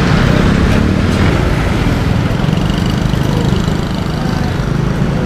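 Motorcycle running steadily while being ridden, with heavy wind and road noise.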